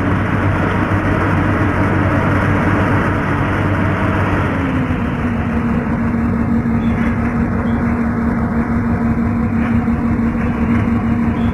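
Heavy engine running steadily. About four and a half seconds in, its pitch drops slightly and then holds.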